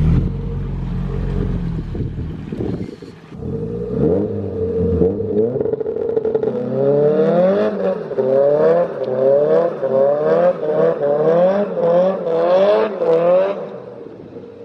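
Car engine running with a deep, loud rumble, then revved over and over in quick blips, its pitch climbing and falling nearly twice a second.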